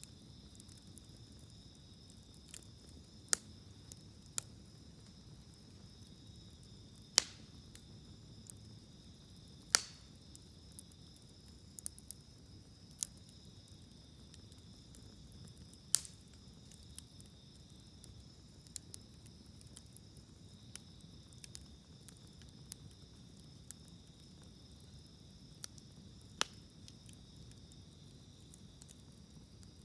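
Wood fire in a campfire grill crackling, with sharp pops every few seconds, over a steady high chirring of insects.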